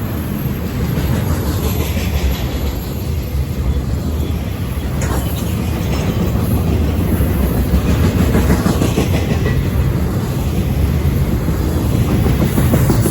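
Freight train cars rolling past at speed, a steady heavy rumble with wheels clicking over rail joints.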